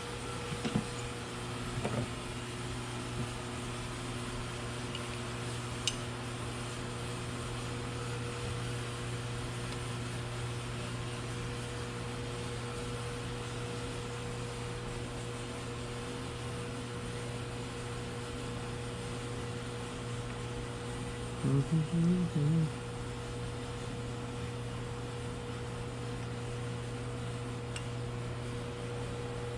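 A steady low electrical hum, like a fan or shop appliance running, with a few faint clicks near the start and a brief wavering sound a little past the middle.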